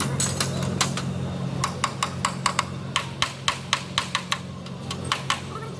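Quick, uneven series of sharp metallic taps, a hammer striking gearbox parts, about four or five a second, over a steady low hum.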